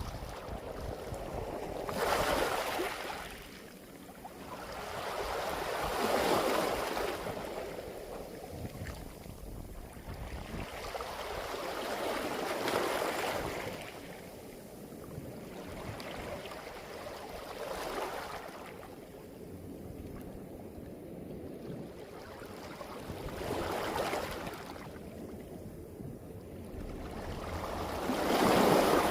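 Sea waves washing up a beach of smooth round pebbles (mongdol), with the pebbles rattling as the water runs over them. The surges come about every five seconds, the loudest near the end.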